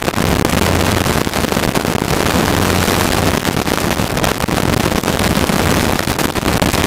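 Helicopter in flight heard from inside the cabin: loud, steady rotor and engine noise with a low hum.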